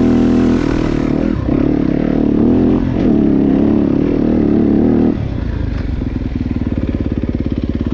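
Dirt bike engine running under varying throttle while riding, the pitch rising and falling. About five seconds in it drops back to a steady, quieter idle-like pulsing.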